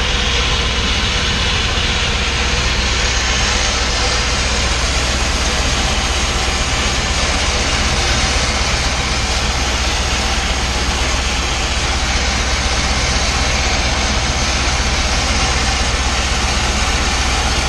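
Truck-mounted mobile steam unit (PPUA) running and steaming out a fuel tank: a steady, even hiss of steam over a continuous low drone from the unit's engine and burner.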